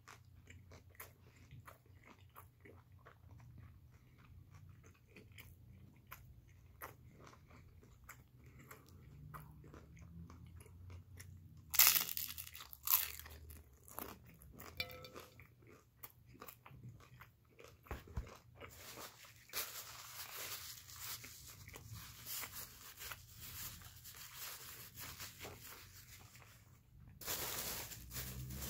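A person chewing crunchy food close to the microphone: a steady run of small crunches and mouth clicks, with a couple of louder crunches a little before halfway and denser, noisier chewing in the second half.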